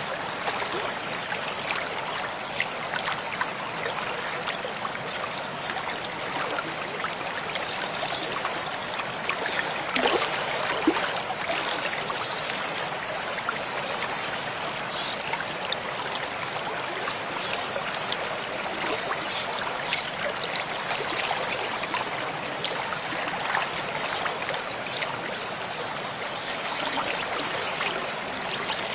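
Mountain stream flowing steadily, with many small splashes and trickles over the water's rush, and a slightly louder splash about ten seconds in.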